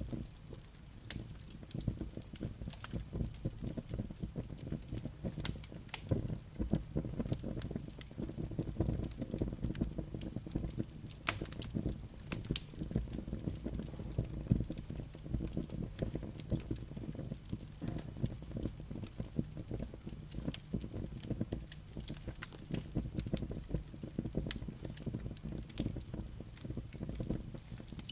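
Firewood burning in a fireplace: a steady low rumble of flames under a dense, irregular scatter of sharp crackles and pops from the burning logs and embers.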